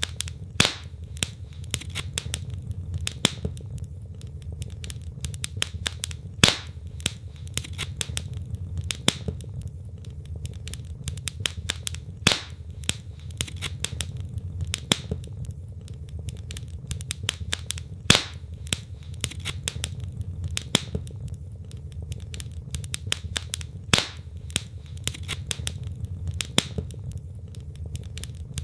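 Wood fire in a fireplace crackling: dense, irregular small snaps with a louder pop every few seconds over a low steady rumble.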